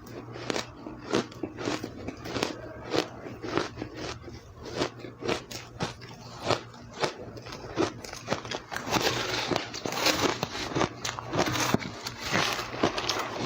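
Ice being bitten and chewed close to the microphone: sharp crunches about twice a second, becoming a denser, continuous crackling crunch from about two-thirds of the way in.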